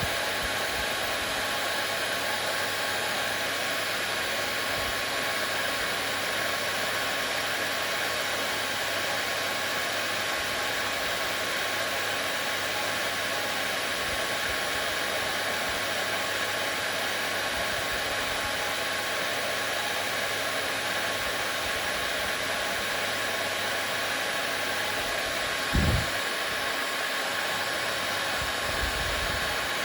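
Hair dryer running steadily: an even rush of air with a faint steady whine in it. A brief low thump near the end.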